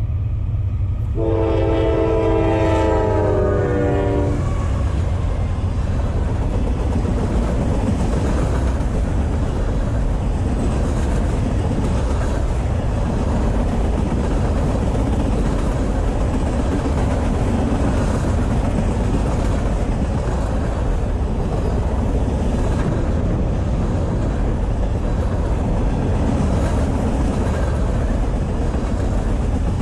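Air horn of a Norfolk Southern freight train led by two AC44C6M diesel-electric locomotives: the end of one blast, then a second blast from about a second in to about four seconds in. The train then rolls past close by, its locomotives and a long string of empty trash-container cars making a steady rumble of wheels on rail.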